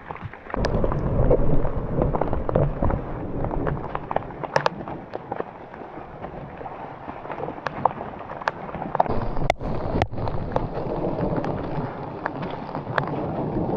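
Rain hitting close to the microphone in many scattered sharp taps. About half a second in, a heavy low rumble of wind or handling on the microphone comes in and goes on under the taps.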